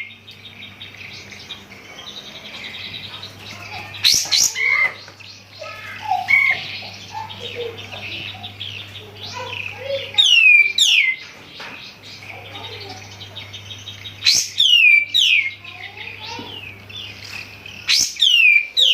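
Kapas tembak bulbul singing loudly: a phrase of several sharp, steeply falling whistles, repeated four times about every four seconds, with softer varied twittering between phrases. A steady low electrical hum runs underneath.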